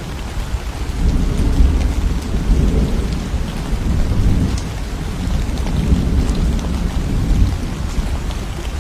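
Thunderstorm: low rolling thunder rumbling throughout, swelling and easing, over steady rainfall with scattered drop ticks.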